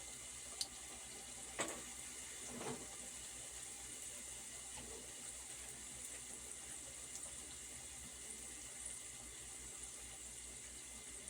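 Steady sizzle of dumplings deep-frying in hot oil in a pot on the stove, the heat turned down a little. A few light knocks of a utensil come in the first three seconds.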